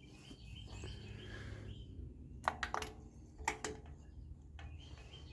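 A few light, sharp clicks from hand tools being handled on the engine, four of them in pairs about two and a half and three and a half seconds in, over a low steady background hum.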